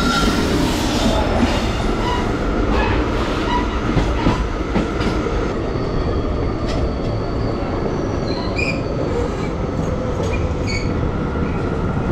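Passenger train coach running on the track, heard from its open doorway: a steady rumble of steel wheels on rail with scattered clicks and brief squeals as the train rolls into a station.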